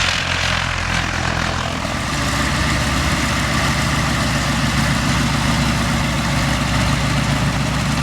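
Propeller aircraft's piston engine running with a steady drone. A broad rushing noise is loudest in the first two seconds, then the engine settles into an even note.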